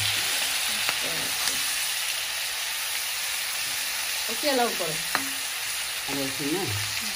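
Chicken, green peppers and tomatoes sizzling in a wok while a metal spatula stirs them, with a steady frying hiss and a few sharp clicks of the spatula against the pan.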